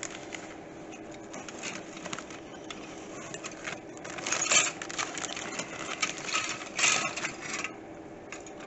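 Plastic crinkling and rustling as bagged plastic model-kit parts are handled, busiest in the second half, over a faint steady hum.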